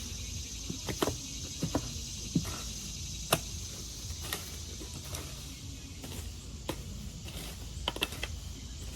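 Garden tiller working dirt: scattered knocks and scrapes at irregular intervals.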